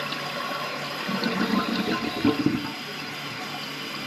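Toilet flushing: water rushing, with a louder gurgling stretch from about one to nearly three seconds in, then a quieter steady running of water. The toilet is one with a weak flush, and something may be lodged in it.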